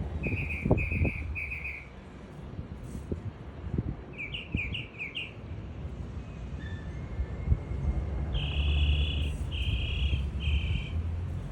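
Small birds calling in short phrases: three quick notes near the start, a rapid run of about five rising chirps midway, and three longer, buzzier notes near the end, over a low rumble with a few thumps.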